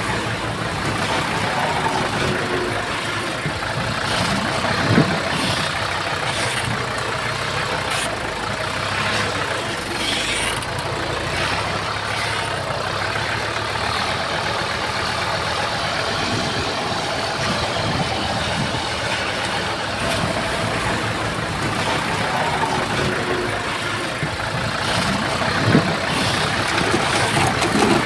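Heavy diesel earthmoving machinery running steadily, with a few sharp knocks.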